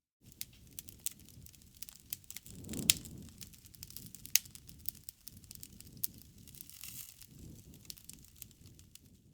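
Wood fire crackling, with irregular sharp pops over a low rustling of flames; the loudest pops come about three seconds and four and a half seconds in.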